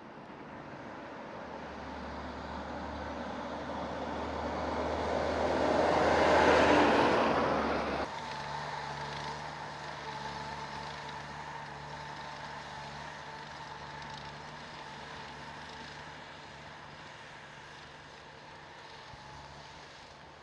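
A heavy road vehicle passing close, its noise building to a loud peak about six seconds in and cutting off abruptly about two seconds later. It is followed by a steadier engine drone with a low hum that slowly fades.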